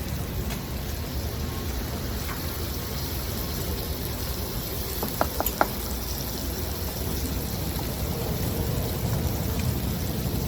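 Onion masala sauce sizzling and bubbling steadily in a pan, with three short clinks about five seconds in.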